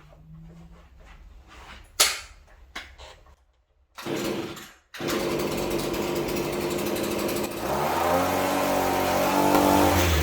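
A few knocks and clicks, then a small two-stroke engine running from about five seconds in. It revs up, its pitch rising, about eight seconds in.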